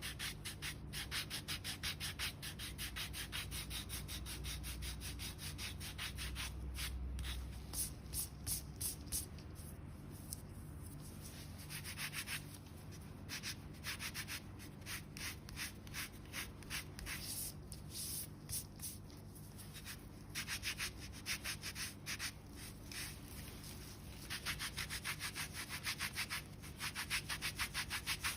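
Foot file rasping across hardened skin and calluses on the sole of a foot, in runs of rapid back-and-forth strokes broken by short pauses.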